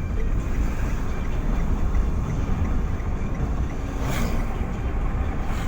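Steady low rumble of a moving vehicle, with a brief rushing whoosh about four seconds in.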